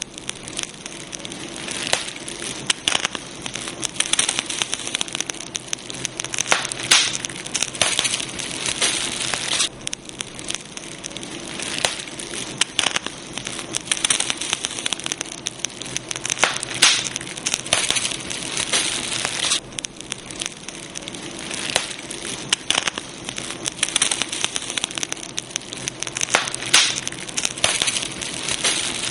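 Campfire burning, with a steady hiss and dense, irregular crackling and sharp pops from the burning wood.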